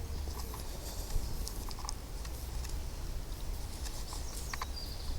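Footsteps and light rustling on a woodland path, with scattered small clicks and cracks over a low rumble on the microphone.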